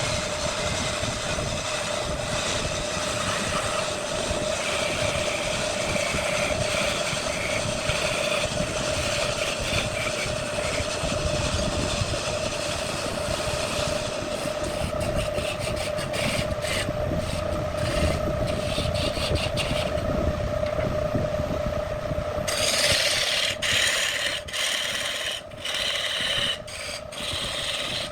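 Wood lathe running with a steady motor hum while a tool rasps and scrapes against the spinning wood. Near the end the scraping turns brighter and scratchier, broken by many quick ticks.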